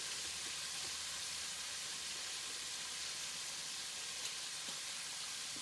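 Steady sizzling of food frying in a pan.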